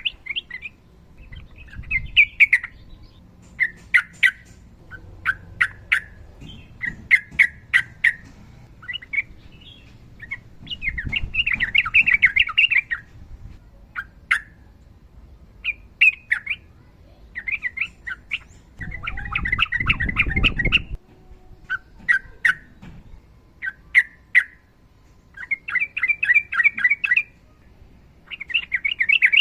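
Yellow-vented bulbul singing in repeated short, chattering bursts, with sharp clicks between them. Twice it runs into a longer rolling chatter lasting about two seconds.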